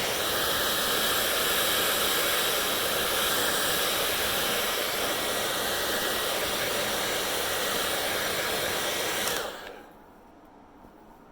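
Hair dryer blowing steadily, then switched off about nine seconds in, its whine falling away quickly as the motor spins down.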